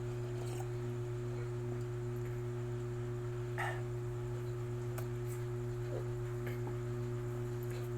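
Steady low electrical hum with a constant pitch, plus a few faint short clicks and smacks, the loudest about three and a half seconds in.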